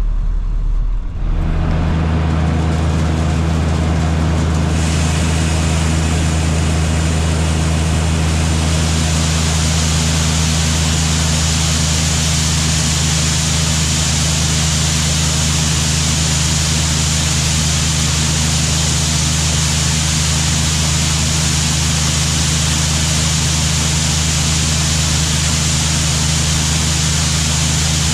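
Farm machinery engine running steadily under load, with a rushing noise layered over it that strengthens about five and nine seconds in.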